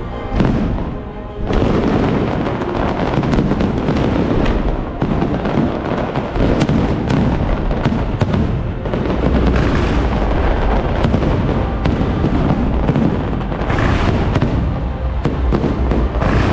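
A dense run of aerial firework bursts, with booms and crackling going off almost without pause.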